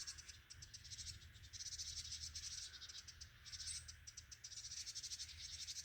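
Faint, steady high-pitched chirring of insects, a fast even pulsing, over a low hum.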